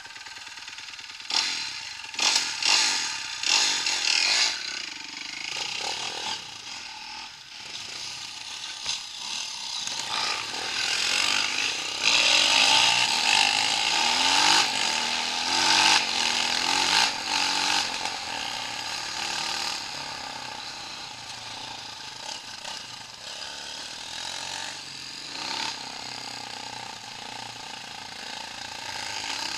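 Engine of an off-road trail vehicle running and revving up and down unevenly, loudest between about twelve and eighteen seconds in.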